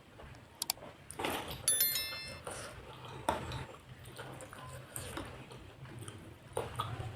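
Close-miked mukbang eating of spicy seblak with soaked crackers and enoki mushrooms: scattered soft chewing and slurping sounds with a few clicks. A short, bright chime sounds about two seconds in.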